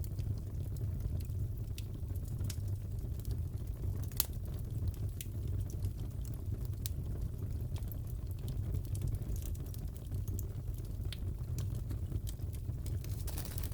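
Crackling fireplace: a steady low rumble of burning wood with scattered crackles and pops, one sharper pop about four seconds in.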